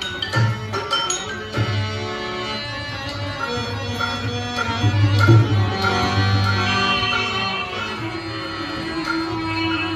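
Live Rajasthani folk music: a tabla plays deep, resonant bass strokes while a bowed sarangi plays a sustained melody over them.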